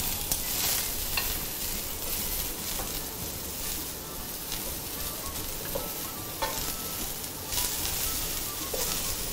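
Sliced button and shiitake mushrooms sizzling steadily in hot oil in a frying pan, seared undisturbed so they brown. A few light clicks come from tongs touching the pan.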